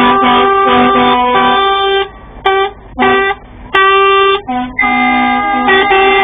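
Truck air horns sounding a series of loud blasts in two or three different notes, cutting off and starting again several times. From about five seconds in they settle into one long held chord.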